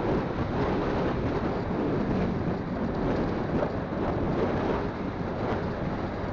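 Steady wind rush on a phone's microphone on a moving motorcycle, mixed with the motorcycle's engine and road noise.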